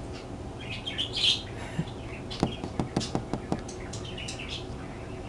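Small birds chirping now and then over a steady rain hiss, with a quick run of light ticks or taps about halfway through.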